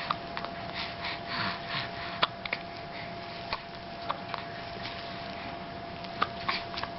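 A dog hiccuping: short sharp clicks every second or so at uneven intervals, the loudest about two seconds in, between snuffly breaths, over a faint steady hum.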